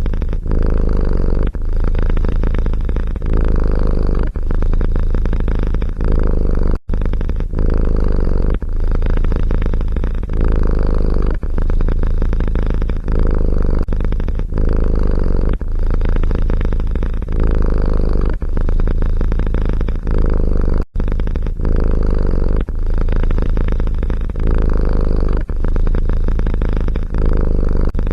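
Domestic cat purring loudly close to the microphone: a low, continuous rumble that swells and dips about once a second with each breath in and out. It cuts out briefly twice.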